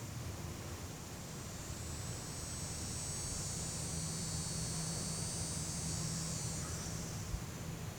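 High, hissing insect drone that swells over a few seconds and fades again near the end, with a steady low hum in the middle and a low background rumble.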